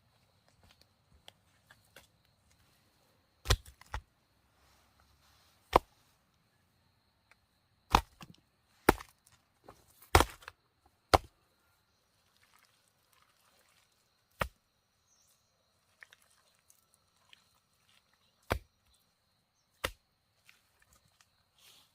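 Wood being chopped with a blade: about ten sharp, separate strikes at an uneven pace, some close together and some several seconds apart. A faint steady high-pitched tone runs behind them.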